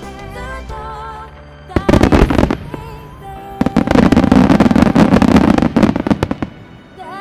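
Starmine fireworks: a short volley of shell bursts about two seconds in, then a longer, denser barrage of bursts and crackle, the loudest part, fading out near the end. A song with a singer plays alongside, as the show is set to music.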